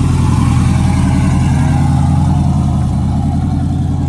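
A truck engine running loud and steady close by, a low, even drone that eases off slightly near the end.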